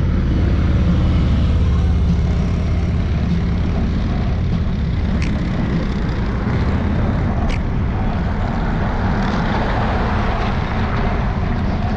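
Steady low rumble of wind buffeting the microphone of a bike-mounted camera while riding, with a couple of faint clicks from the rattling camera mount.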